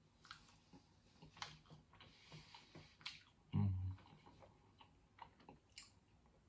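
A person chewing a mouthful of sausage sandwich, with small wet mouth clicks and light handling of the food on a plate, and a short low hum from the closed mouth about three and a half seconds in.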